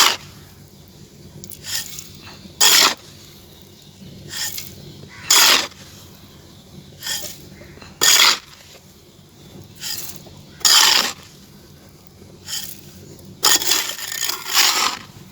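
Short, gritty scraping crunches of dry clay being worked by hand. A loud one comes about every three seconds, with fainter ones between, and two close together near the end.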